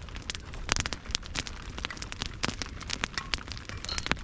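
Heavy rain pattering on a tarp shelter, mixed with the crackle and pops of a wood campfire: a steady hiss with many sharp, irregular clicks.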